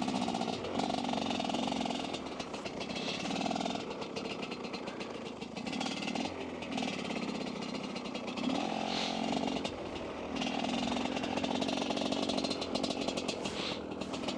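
Dirt bike engine running as it is ridden through snow, its revs rising and falling with the throttle.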